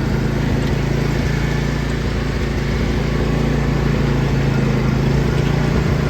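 John Deere LA145 riding lawn mower's engine running at a steady speed as the tractor is driven.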